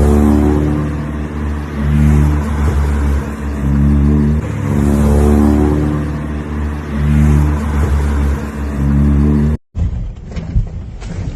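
Car engine running loud, its pitch going up and down as it is revved. It cuts off suddenly near the end.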